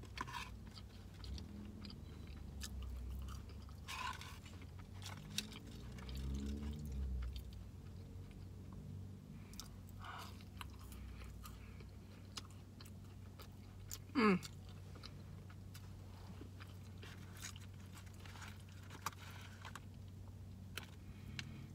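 Close-up chewing and biting of a fried chicken sandwich and bun, with small wet mouth clicks and light crunches. A steady low hum runs underneath, and a short falling vocal sound comes about two-thirds through.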